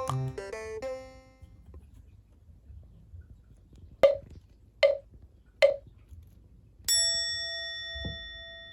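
Edited-in background music and sound effects: a light plucked jingle dies away, three short pops follow about a second apart, then a single bell ding rings out and slowly fades.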